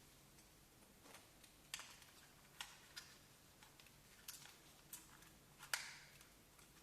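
Faint, irregular clicks and taps, about seven of them, with the loudest a little before the end.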